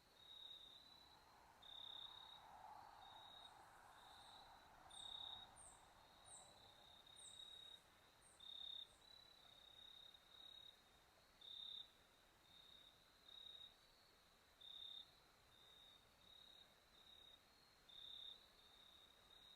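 Crickets chirping: short trills repeating about once a second, with a brief run of higher chirps a few seconds in.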